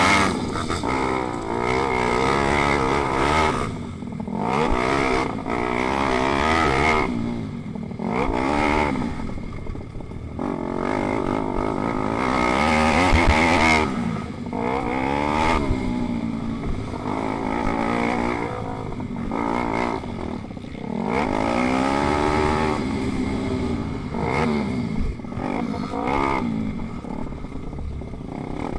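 Pit bike engines racing: small single-cylinder four-stroke motors revving up and dropping back again and again as the bikes accelerate, shift and brake, with more than one engine sounding at times.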